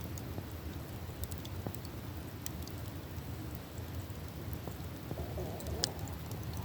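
Campfire burning: a steady low rumble with scattered sharp crackles and pops from the burning wood, one louder pop near the end.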